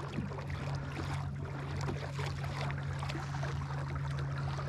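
Minn Kota electric trolling motor on a kayak running steadily at high speed, a constant low hum of unchanging pitch, with water washing along the hull.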